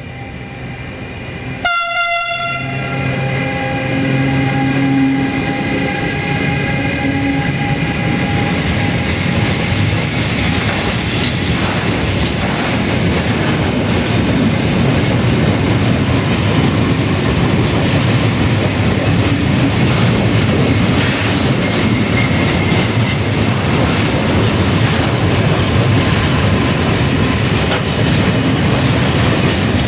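Siemens Class 189 electric locomotive sounds its horn about two seconds in, a sudden blast that fades over the next few seconds as it passes. Then the long train of open freight wagons rolls by close up, wheels clattering over the rail joints, growing slowly louder.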